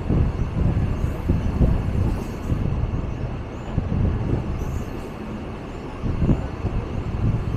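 Mumbai suburban local electric train running across a rail bridge: a continuous low rumble of wheels on the rails with irregular knocks.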